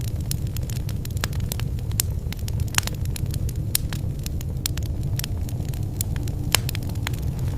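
Fireplace fire burning: a steady low rumble of flames with frequent, irregular sharp crackles and pops.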